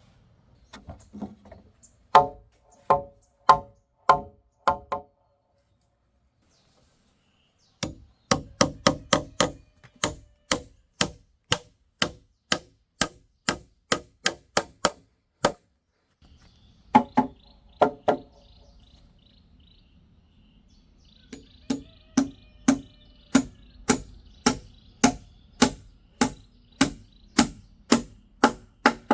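Repeated sharp blows of a hand tool striking wood, about two a second, in several runs separated by short pauses.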